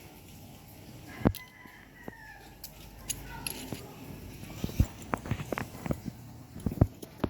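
A rooster crowing faintly, with a sharp knock about a second in and a run of light clicks and taps in the second half.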